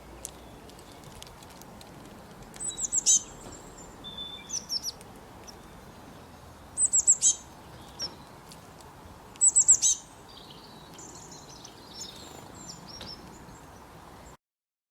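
A songbird singing three short phrases of quick, high, downward-sliding notes, several seconds apart, with softer chirps in between over a faint outdoor hiss.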